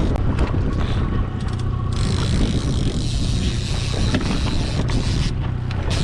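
Boat motor running steadily with a low, even hum, with a few light clicks and knocks on the boat.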